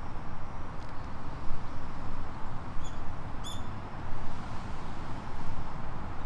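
Steady outdoor background noise with a low rumble, broken about halfway through by two short, high bird chirps a half-second apart, and another right at the end.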